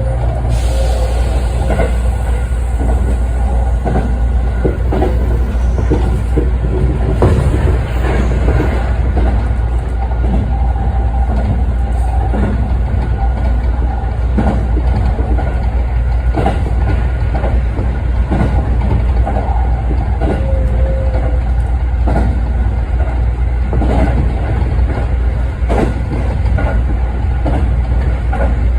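Sanyo Electric Railway 5030 series electric train running along the line, heard from inside the car: a steady low rumble of wheels on rail, with irregular clicks and knocks as the wheels pass over rail joints.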